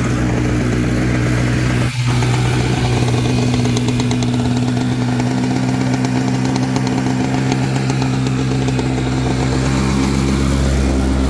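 Jet boat's gasoline engine running steadily near idle out of the water while its carburetor is being tuned, with a brief drop in sound about two seconds in.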